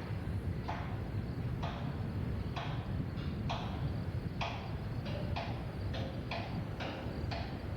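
A series of sharp knocks, about one a second at first and coming quicker, nearly two a second, in the second half, over a steady low rumble.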